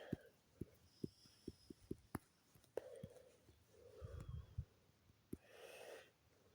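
Near silence with faint, irregular taps of a stylus on a drawing tablet and soft breathing.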